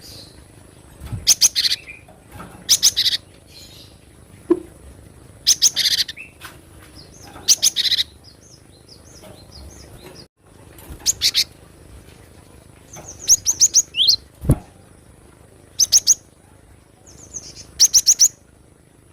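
Cinereous tit (gelatik batu) calling: short bursts of quick, high repeated notes, a burst every second or two.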